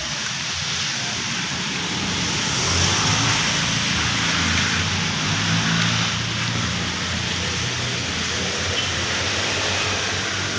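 Heavy rain falling steadily, with a motor vehicle's engine running low underneath, coming in about two seconds in and loudest in the middle.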